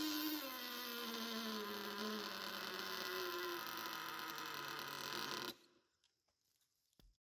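Small nitro glow engine of an RC jet-ski buzzing at speed, its pitch slowly falling, then cut off suddenly about five and a half seconds in.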